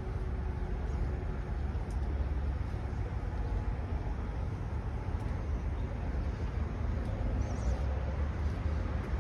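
Diesel engine of a 2020 Kenworth water truck running steadily with a low, even rumble.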